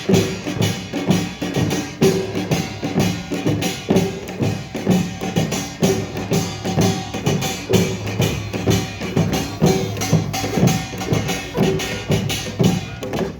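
Korean pungmul percussion ensemble of drums and gongs playing a fast, dense rhythm of many strikes a second, with gongs ringing underneath.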